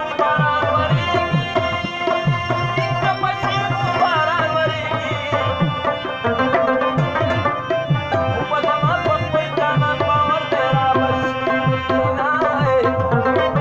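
Music led by tabla: a steady drum pattern whose deep bass-drum strokes glide down in pitch, under a sustained melodic instrument with a wavering tune.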